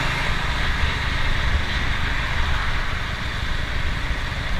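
Motorstar Nicess 110 motorcycle running steadily at speed, around 90 kph, with wind rushing over the microphone and road rumble.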